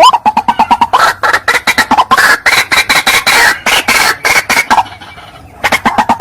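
White-breasted waterhen calling: a fast, dense run of loud harsh repeated notes that dips for about half a second near the end and then picks up again. It is the bird's territorial call, used as a lure to draw wild waterhens in.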